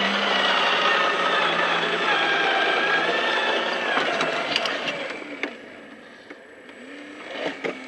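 Radio-controlled scale truck's motor and gears whining under throttle for about four seconds, then easing off, followed by a few scattered clicks and ticks.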